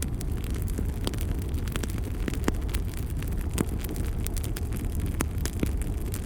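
Fire burning in a fireplace: a steady low rumble with frequent irregular sharp crackles and pops.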